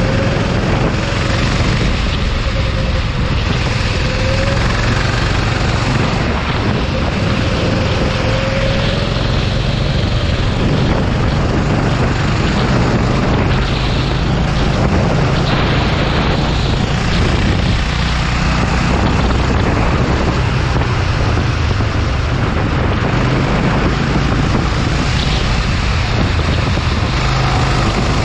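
Go-kart engine running at racing speed, masked by heavy wind noise on the microphone; a faint engine pitch rises and falls now and then in the first part.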